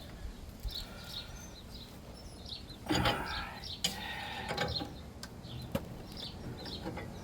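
Small birds chirping over and over, with a few sharp metallic clicks and a brief scraping noise about three seconds in.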